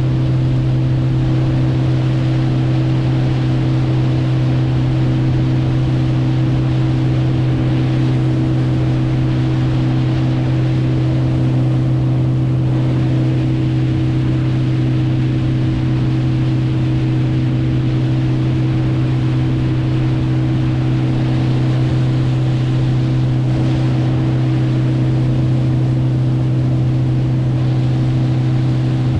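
Boat motor running steadily at constant speed, a loud unchanging drone, with water and wind noise underneath.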